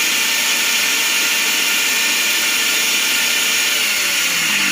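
Kitchen mixer grinder (mixie) running at full speed with a freshly repaired jar fitted, as a test run after replacing the jar's bush. The motor and blade make a loud, steady high whir.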